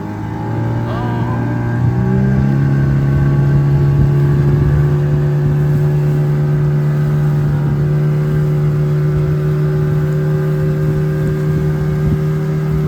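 Boat's outboard motor speeding up over the first couple of seconds, then running steady at speed.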